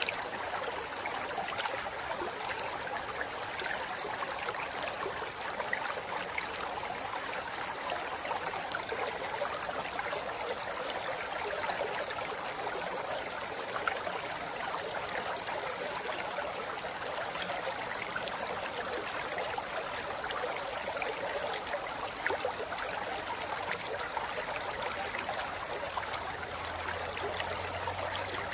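River water flowing over rocks: a steady, even rush of running water with fine splashing detail.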